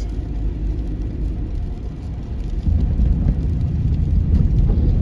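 Car driving on a snowy road, heard from inside the cabin: a steady low rumble of engine and tyres that gets louder about two and a half seconds in.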